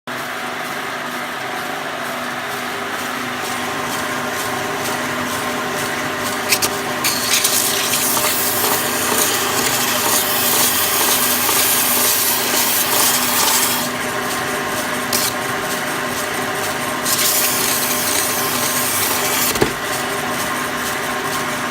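Horizontal belt sander running with a steady motor hum, with a workpiece held to the moving belt in two long spells that add a loud rasping hiss; a knock ends the second spell.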